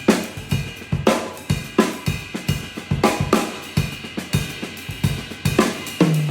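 Yamaha drum kit played in a fast solo: snare, bass drum and hi-hat strokes, with several cymbal crashes ringing on between them.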